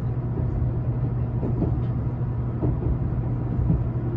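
Steady running rumble inside a Meitetsu 1000-series express car on the rails, with a few faint short squeals about midway through.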